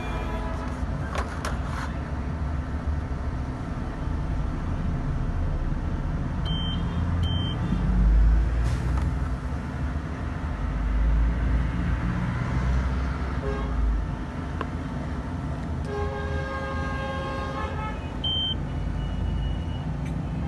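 Road traffic rumbling, with vehicle horns tooting and one longer horn note near the end.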